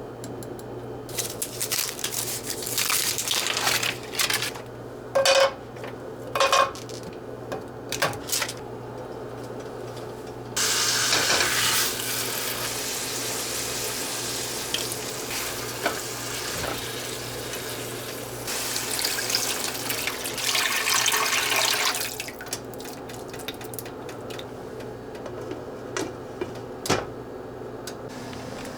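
Dishes and cutlery clattering, then a kitchen tap running into a sink for several seconds, twice, as things are rinsed or washed up. A low steady hum runs underneath.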